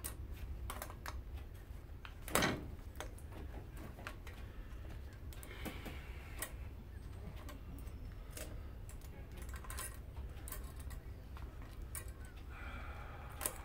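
Irregular light clicks and taps of hand work on a dismantled electric lawnmower motor, pulling at its copper windings, with one louder knock about two and a half seconds in.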